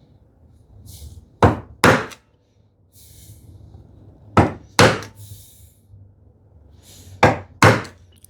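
A wood chisel struck six times, in three pairs of two sharp knocks a few seconds apart, chopping into the wood a little away from the knife wall of a housing dado.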